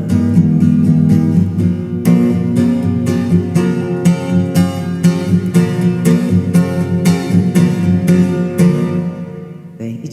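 Instrumental ending of a song: strummed acoustic guitar, with regular strokes a few times a second, fading out near the end.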